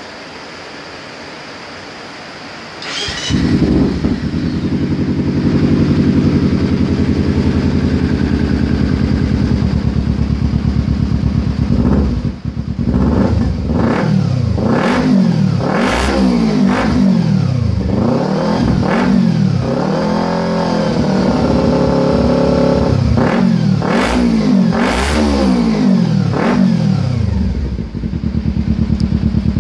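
Kawasaki Z250's parallel-twin engine through an Akrapovic slip-on silencer. It starts up about three seconds in and idles steadily, then from about twelve seconds in it is revved again and again with quick throttle blips, each rising and falling in pitch.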